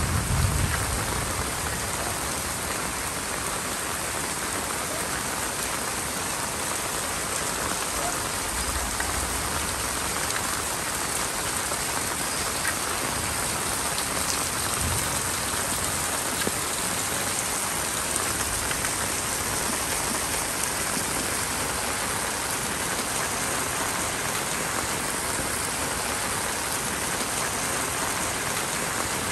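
Steady rain falling, an even hiss. The tail of a thunder rumble dies away in the first second.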